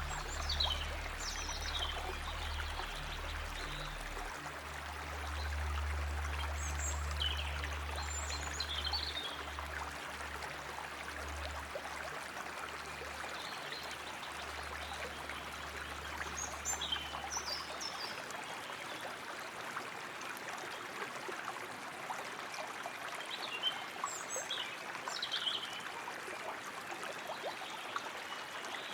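Flowing water trickling steadily, with short bursts of high bird chirps about four times. A low hum underneath stops about two-thirds of the way through.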